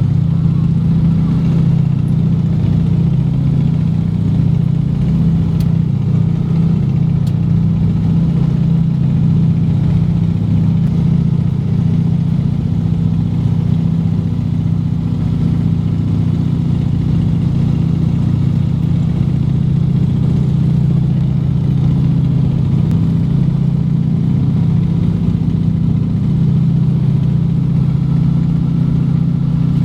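Junkers Ju 52's three radial engines droning steadily in flight, an even, unchanging low drone with no change in power.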